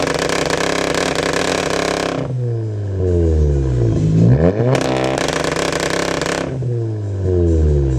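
Straight-piped, stage 2 tuned Volkswagen Golf R's turbocharged four-cylinder exhaust revving hard, twice. Each time it is held at high revs for about two seconds, then the revs fall back over a couple of seconds.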